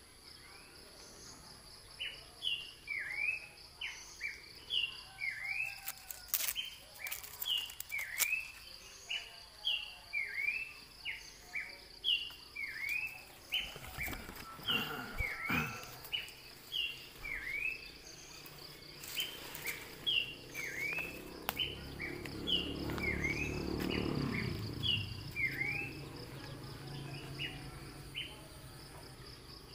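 A bird calling over and over, a short note followed by a chirp that dips and rises, roughly once a second, over a steady insect buzz. A low rumbling noise swells and fades about two-thirds of the way through.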